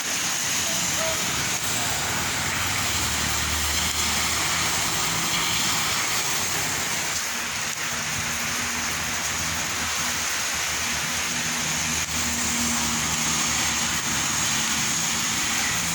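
Steady heavy rain falling, an even hiss with no pauses, with a low hum underneath from about two and a half seconds in.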